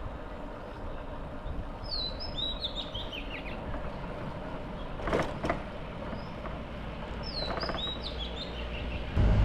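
A bird calls twice, each call a quick falling run of high whistled notes, over a steady low vehicle rumble. Two short sharp sounds come about halfway through.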